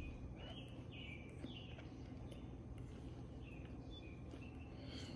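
Faint bird chirps: many short, high chirps and quick pitch slides, a couple a second, over a low steady hum.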